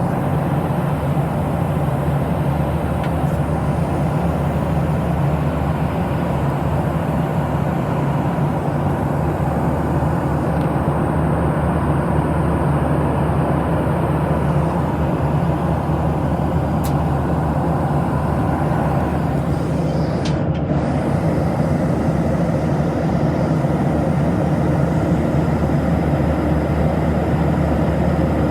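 Steady jet engine and airflow noise inside the cabin of a Boeing 737-700: a constant low hum under an even hiss.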